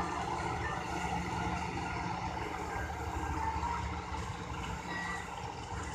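Large diesel engine idling steadily with an even low hum, typical of a diesel locomotive standing at the station.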